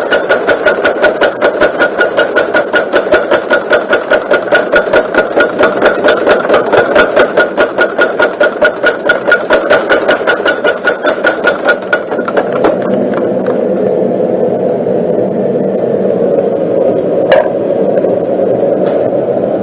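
Motor-driven homemade power hammer striking rapidly and evenly, about four to five blows a second. About twelve seconds in the blows stop and the drive motor runs on with a steady hum, with one single knock near the end.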